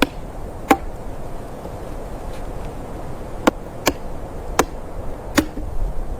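Six sharp knocks at uneven intervals, like chopping strikes, over steady low background noise.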